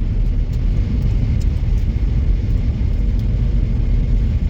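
Steady low rumble of a car driving, heard from inside the cabin: road and engine noise with no sharp events.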